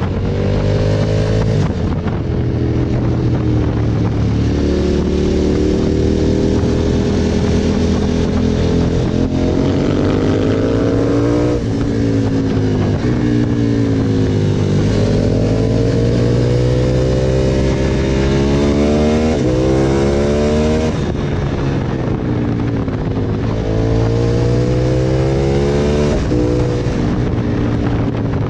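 KTM 1290 Super Adventure S V-twin engine pulling hard through the gears, its pitch climbing in several long rises and dropping sharply between them.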